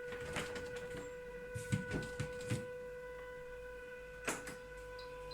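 Siemens refrigerator giving off a steady high-pitched whine with overtones, the noise its owner disputes as a fault and says keeps going even after the appliance is switched off. Several short knocks or clicks sound over it, the loudest a little past the middle.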